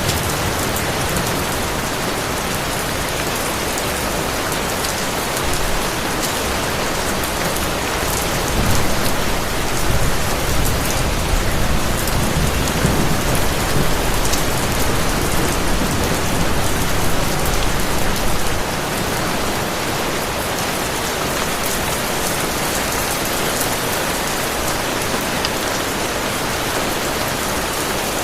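Heavy rain falling steadily. From about a third of the way in, a low thunder rumble rises under the rain for roughly ten seconds, then drops away suddenly.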